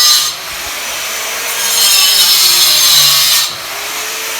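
A power tool cutting on a building job, in two long passes of about two seconds each, running on more quietly between them.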